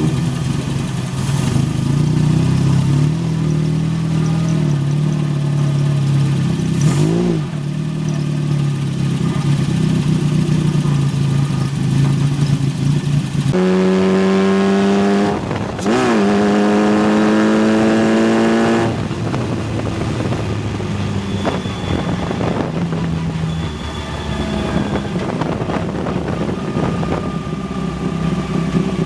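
Single-seater formula race car engine running hard, its pitch dipping briefly twice. About thirteen seconds in, the note steps up louder and higher for several seconds, then drops back.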